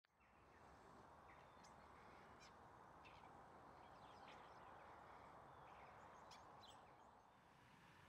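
Faint, thin, high-pitched calls of small birds, a dozen or so short notes, some falling in pitch, over a steady background hush.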